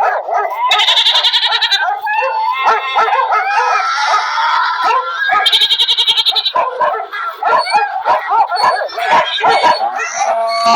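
Animal calls overlapping one after another, mostly goat-like bleating with dog barks among them, with a quick rattling high sound twice.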